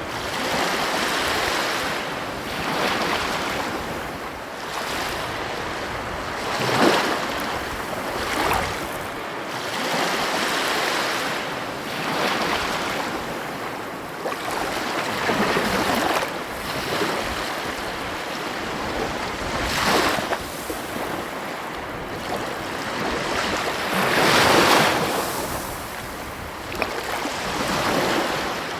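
Ocean waves breaking and washing up the shore in a steady surf, swelling every few seconds with the loudest breakers about seven seconds in and near the end, with some wind noise on the microphone.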